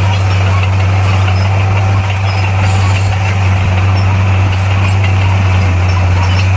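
Bulldozer's diesel engine running steadily at an even pitch, a deep low drone with no revving.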